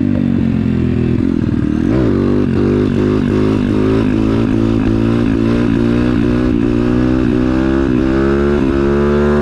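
Pit bike's small single-cylinder engine running under throttle, revving up and dropping about two seconds in, then climbing in pitch in short repeated pulls.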